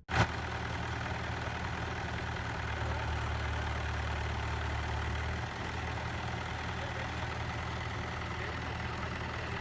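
Tractor diesel engine running steadily at low revs, a deep even hum with a slight dip about five and a half seconds in.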